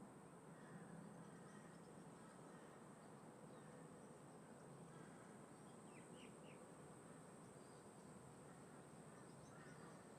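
Faint outdoor ambience: a steady rush of wind and distant traffic, with a few short, distant crow caws about six seconds in and again near the end.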